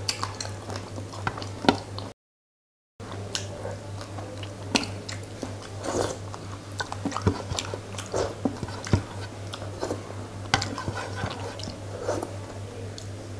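Close-miked wet chewing and mouth smacking of a person eating fish curry and rice by hand, many sharp smacks over a steady low hum. The audio drops out briefly about two seconds in.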